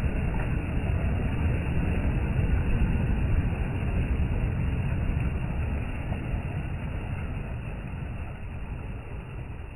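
Low, steady rumbling noise with no distinct events, muffled and dull like outdoor sound slowed down for slow motion. It swells about three seconds in and then slowly fades.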